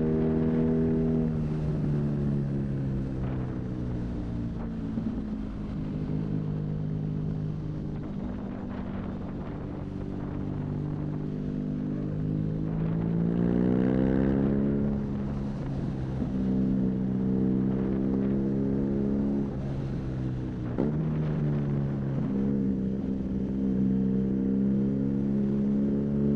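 BMW R nineT's air/oil-cooled boxer twin, fitted with a high-mounted Arrow exhaust, running under way. The engine note eases off near the start and holds steady. About halfway it climbs as the bike accelerates, then falls quickly at a gear change. There is another shift a few seconds later, after which it settles into a steady cruise.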